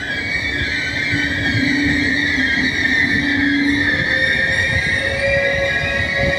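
Train moving through the station with its wheels or brakes squealing: steady high-pitched squeal tones over the rumble of the wheels on the rails, a lower hum fading about four seconds in as another tone starts.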